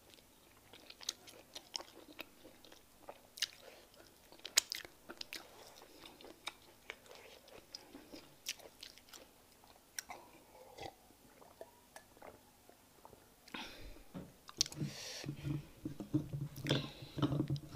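Close-miked wet chewing and lip-smacking of a person eating fufu with peanut soup: irregular soft clicks and squelches. The sounds grow louder and denser near the end, as her fingers work a fresh lump of fufu.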